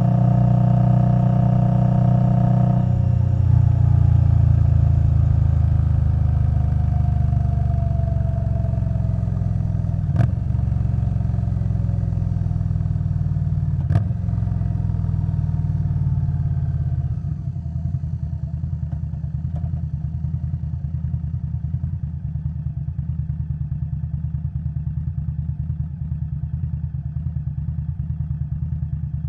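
2021 Indian Scout Bobber Twenty's V-twin through a Vance & Hines Twin Slash exhaust, running steadily under way, then dropping in pitch as it slows, with two sharp clicks. From a little past halfway it settles into a lower, evenly pulsing idle.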